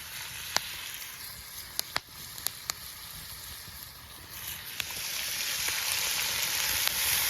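Food sizzling over a wood campfire: a steady hiss with a few sharp pops, getting louder about halfway through.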